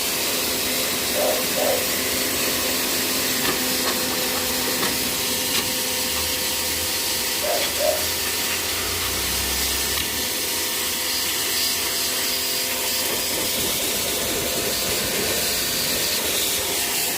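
Steady hissing of a water spray jet washing an air conditioner during servicing.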